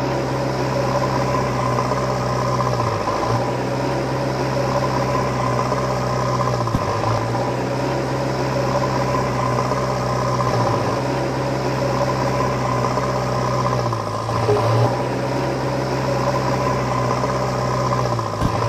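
Diesel engine of a JCB backhoe loader running steadily, its note briefly changing about every three to four seconds.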